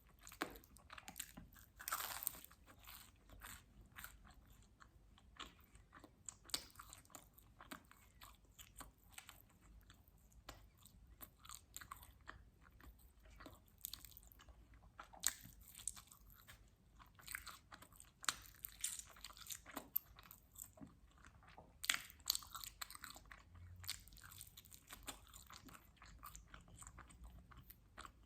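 Close-miked chewing and biting of pizza: a steady run of short, crisp crunches and wet mouth clicks, with a few louder bites scattered through.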